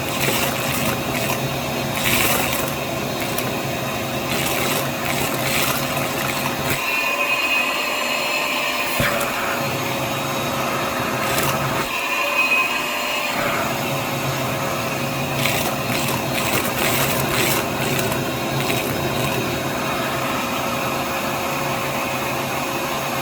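Hyper Tough vacuum cleaner running steadily, with short clicks and rattles of small objects, typical of beads being sucked up. Twice its low sound drops away and a higher whine comes in for about two seconds.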